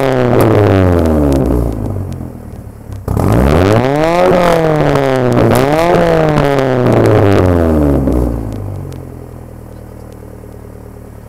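Honda Civic's B16A1 1.6-litre DOHC VTEC inline-four revved several times through a new rear exhaust section, its pitch rising and falling with each rev. It settles back to a steady idle about eight seconds in.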